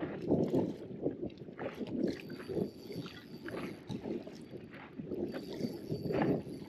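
Choppy water slapping and lapping against the hull of an inflatable boat in irregular bursts, with wind buffeting the microphone.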